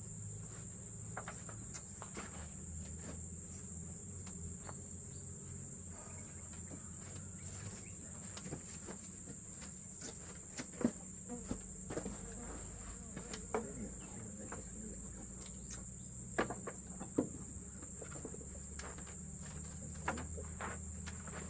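Steady, high-pitched drone of forest insects, with scattered light clicks and knocks over it, a few sharper ones about halfway and two-thirds of the way through.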